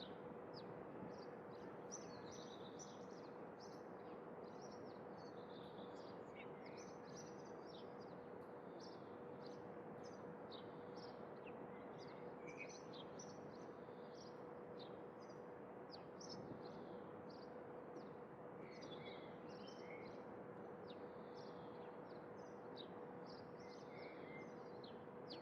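Small birds chirping and twittering many times over, over a faint steady background hiss with a thin steady hum.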